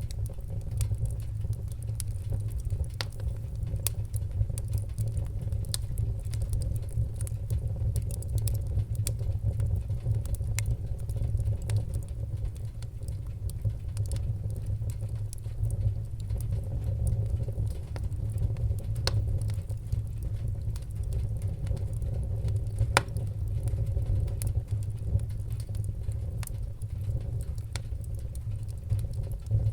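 Wood-burning fire crackling, with irregular sharp pops and snaps over a steady low rumble.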